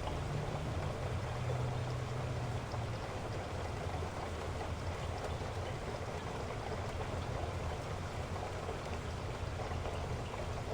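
Heavy rain falling in a steady, dense hiss, with a low rumble underneath that eases off after the first few seconds.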